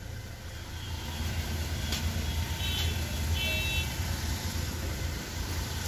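Hyundai i20's four-cylinder common-rail diesel engine idling with a steady low hum, running smoothly after its injectors were serviced, with no tak-tak knock.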